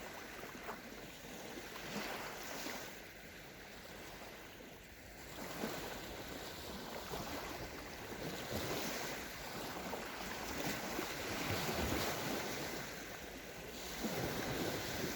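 Small sea waves washing onto a sandy beach, the surf swelling and easing every few seconds, with some wind on the microphone.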